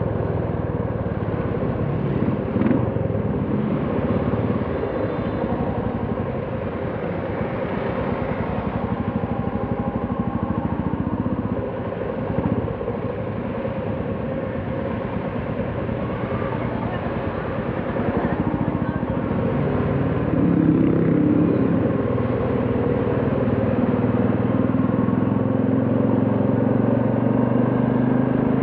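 Royal Enfield Classic 350's single-cylinder engine and exhaust running steadily under way, with road noise. About twenty seconds in, the engine note strengthens and gets louder.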